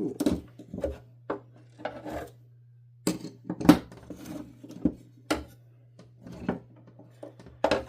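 Vacuum cleaner parts being handled: an irregular string of clicks and knocks from hard plastic pieces and the freed circuit board being moved and set down, over a steady low hum.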